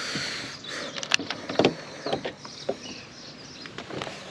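Handling clatter in a small fishing boat: a few sharp clicks and knocks, the loudest about a second and a half in, over a steady hiss.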